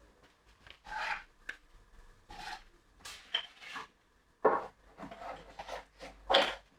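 Irregular rubbing and scraping strokes on wood, with a few sharper, louder knocks, like wooden workpieces being handled, slid or sanded by hand.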